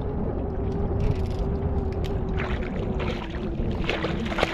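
A steady electric hum on a fishing boat, over wind rumble on the microphone and water noise, with a few short sharp noises in the second half.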